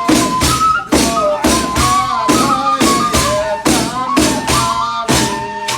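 A daf frame drum is struck in a steady beat, about two strokes a second. Above it runs a held, wavering melody from the ceremonial music of Yezidi religious hymns (qewls).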